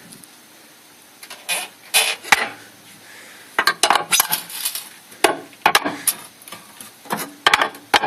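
Renault subframe rubber silent blocks (bushings) squeaking: short sharp squeaks and creaks in repeated groups, one every second or two. The squeak is the sign of the subframe bushings themselves being at fault.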